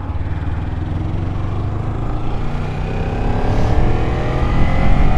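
Kawasaki Ninja 300's parallel-twin engine accelerating, its pitch rising steadily and growing louder through the second half, over a low rumble of wind on the microphone.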